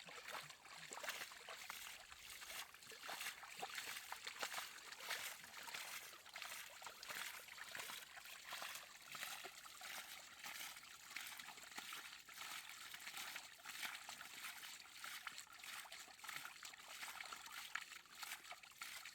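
Water trickling and splashing steadily, with many small, quick splashes.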